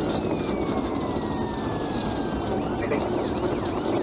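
Police car siren sounding over steady road and engine noise during a pursuit: a long wail falling slowly in pitch, then switching to quick up-and-down yelps near the end.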